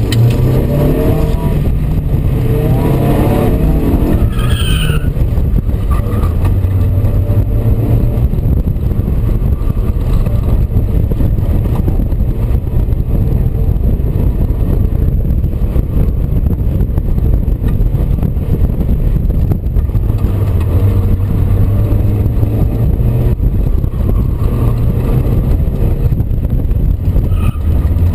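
Mazda Miata's four-cylinder engine running hard through an autocross course, its pitch rising and falling as the car accelerates and slows between cones, with wind and road noise in the open cockpit. A brief high squeal comes about five seconds in.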